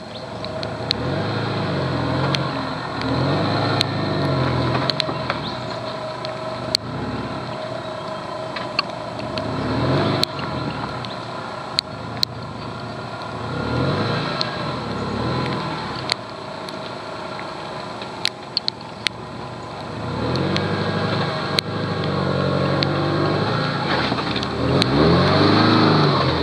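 First-generation Subaru Forester's flat-four engine revving up and down several times under load while crawling over rocks, loudest near the end, with scattered sharp knocks and clicks.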